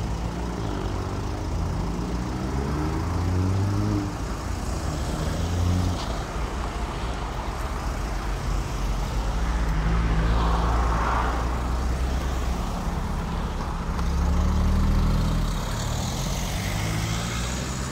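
Cars pulling away one after another. Their engines rise in pitch as they accelerate out, first in the opening seconds and again near the end, with a steadier engine drone in between.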